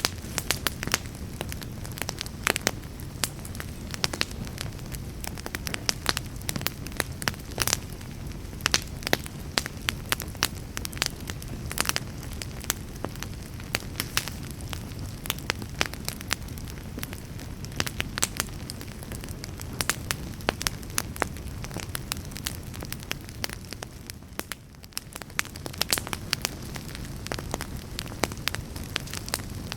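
Wood fire burning in a fireplace: irregular sharp crackles and pops of burning logs over a low steady rumble of the flames, easing briefly about three-quarters of the way through.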